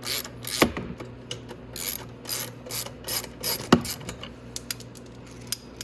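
Ratchet wrench with a 13 mm socket clicking in a series of short back-and-forth strokes while undoing the bolts under a body panel. Two sharper metallic clinks come through, one shortly after the start and one a little before the fourth second.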